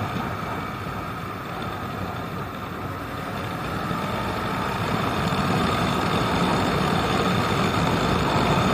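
Motorcycle engine running steadily with road noise, growing gradually louder over the second half.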